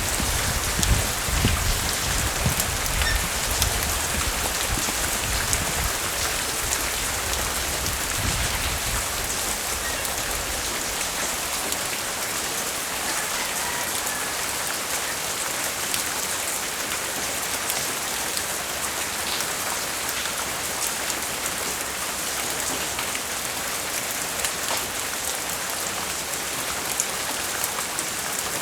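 Steady light rain falling, a hiss of fine drops with scattered small pattering ticks. A low gusty rumble of wind comes and goes through the first third, then dies away.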